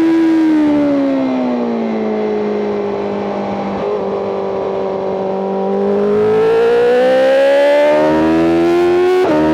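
BMW M 1000 RR superbike's inline-four engine heard onboard: the revs fall over the first two seconds, hold low through a corner, then climb steadily under acceleration from about six seconds in, with a quick upshift near the end.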